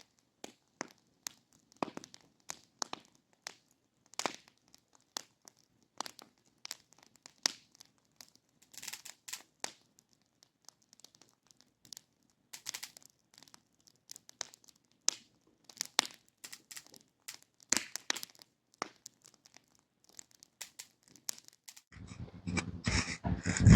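Fabric and gear being handled, rustling and crinkling in short, irregular scrapes and ticks, with a louder burst of handling noise near the end.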